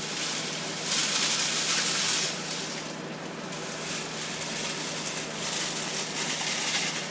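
Running water hissing in uneven surges over a steady low hum.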